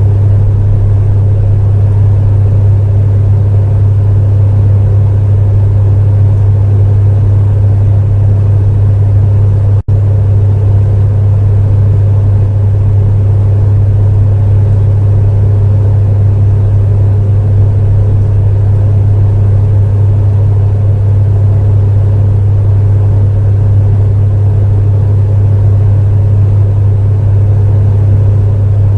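Space heater running: a steady deep hum under a softer rushing noise. The sound drops out for a split second about ten seconds in.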